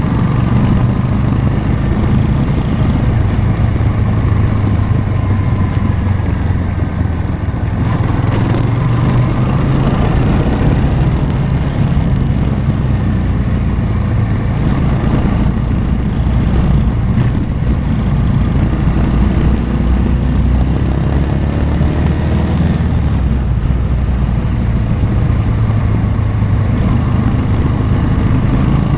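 Motorcycle engine running steadily under way, its pitch rising and falling gently with the throttle through the ride.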